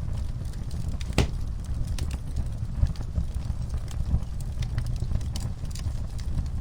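Wood fire crackling in a fireplace: a steady low rumble of flames with scattered pops and snaps, the sharpest about a second in.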